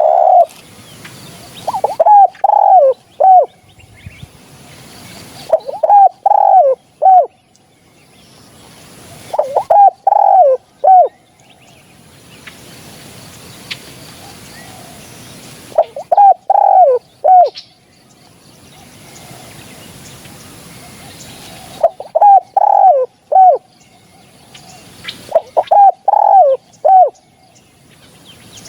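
Spotted dove cooing: six phrases of three or four low, bending coos each, repeated every few seconds with short pauses between them.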